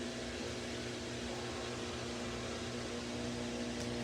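Samsung washing machine running: a steady motor hum with a faint low throb repeating a little faster than once a second.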